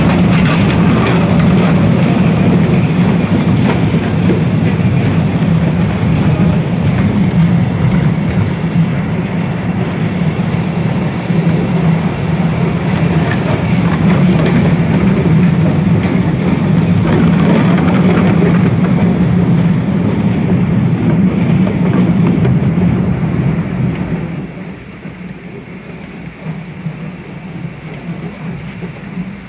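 Running noise of the Postojna cave train's open carriages rolling on rails: a loud, steady rumble that turns much quieter about three-quarters of the way through.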